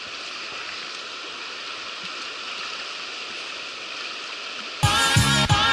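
Steady rushing of a fast-flowing river. Near the end, electronic music with a beat cuts in suddenly.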